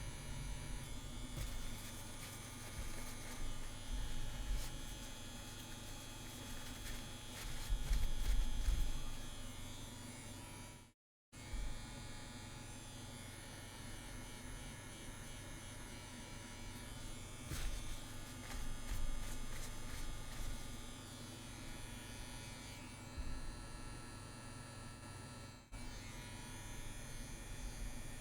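CNC WE tattoo machine running with a steady buzz as lines are tattooed into practice skin. The sound cuts out completely for a moment about eleven seconds in.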